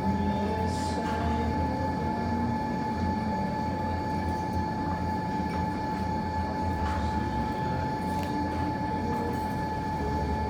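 Fire burning in an indoor fireplace: a steady low rumble with a constant hum beneath it and a few faint crackles.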